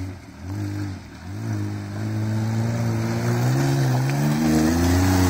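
Maruti 800's small three-cylinder petrol engine revving in a few short bursts, then held at high revs with its pitch climbing, as the car tries to claw up a slippery mud slope with its wet tyres losing grip.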